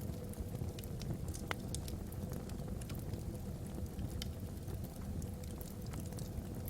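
Wood logs burning in a fireplace: scattered sharp crackles and pops over a steady low rumble.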